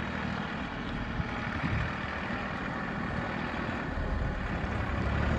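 Farm tractor engine running steadily, with a low rumble that gets louder near the end.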